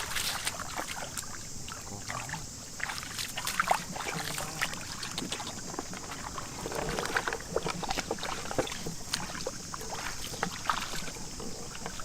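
Shallow field water splashing and sloshing irregularly as hands and legs move through it, over a steady high-pitched hiss.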